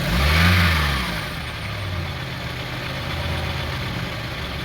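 Honda CR-V 2.4-litre four-cylinder engine blipped once: the revs rise and fall back within about a second and a half, then it idles steadily. The throttle is being pumped to make the oxygen sensor's voltage swing during testing.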